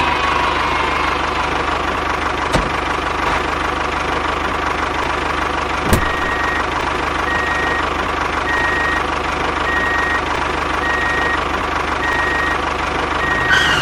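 Small motor-driven machine running steadily with a constant whine. Two short clicks sound in the first half, and from about halfway a short high beep repeats roughly once a second.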